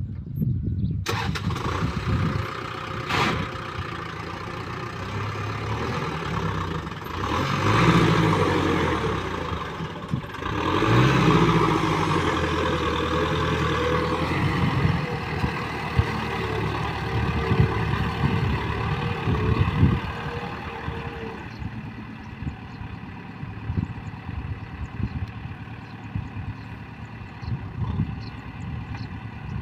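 Kubota M6040 tractor's diesel engine running, revving up twice about a third of the way in, then running steadier and a little quieter.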